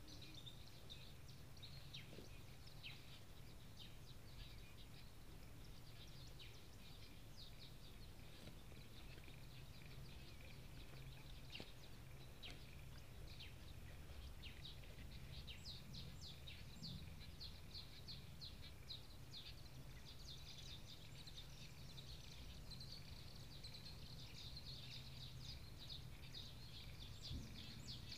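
Faint chorus of small birds chirping: many short high chirps overlapping, busiest in the second half, over a low steady rumble.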